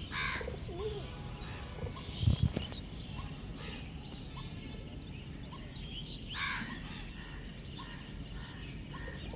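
Several wild birds calling together: many short high chirps and whistles, with two harsh, rasping calls, one at the start and one about six and a half seconds in. A few low thumps come about two seconds in.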